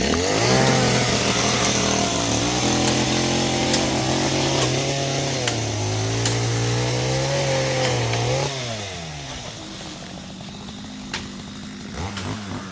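Two-stroke chainsaw revved up and held at high speed for about eight seconds, its pitch wavering, then dropping back to idle; a short rev again near the end.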